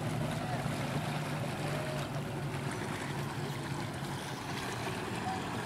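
Jet ski engine running steadily with a low hum, over an even rush of water and wind noise.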